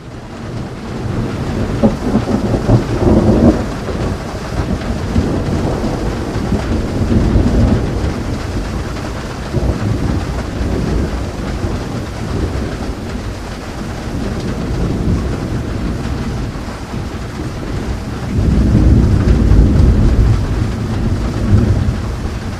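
Thunderstorm: steady rain with rolling thunder. The low rumble swells about two to four seconds in and again near the end.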